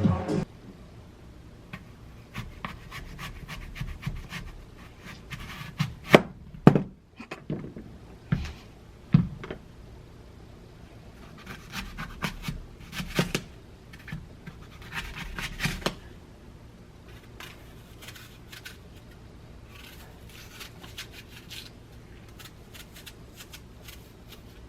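Small clicks, taps and knocks of objects being handled, scattered and uneven, with a few louder knocks in the first third and sparser, fainter ticks in the second half.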